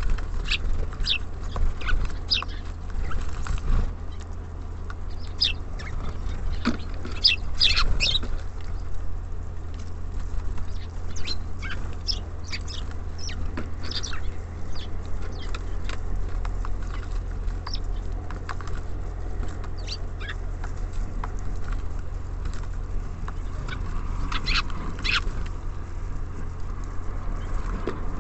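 Small songbirds at a feeder, such as tits and sparrows, making scattered short high chirps, with a few louder bunches. A steady low rumble runs underneath.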